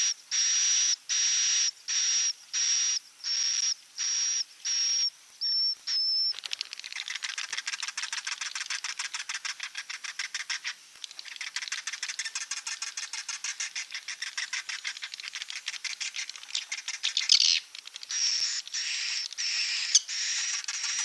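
Swiftlet roosting lure calls: high chirps repeated evenly about twice a second, then from about six seconds in a long, fast chattering of rapid clicks. The spaced chirps return near the end.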